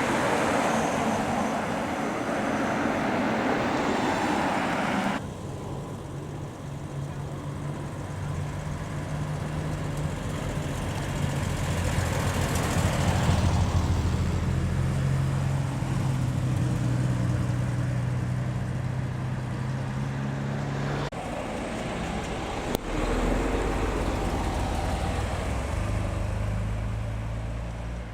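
Classic cars driving past one after another, engines running and swelling as each nears and then fading. The sound changes suddenly about five seconds in and again near twenty-one seconds.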